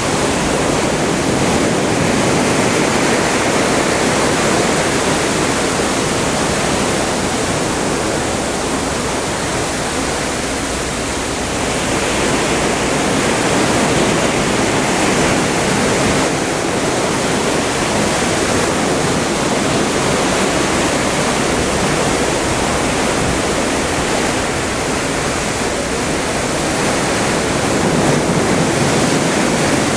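Atlantic seawater rushing and churning past a moving cruise ship, a steady loud rush that eases slightly for a moment partway through.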